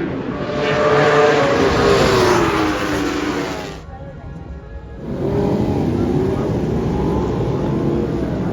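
Racing superbike engines revving at full race pace, the pitch sliding down as they slow. The sound drops away sharply just before four seconds in and comes back about a second later.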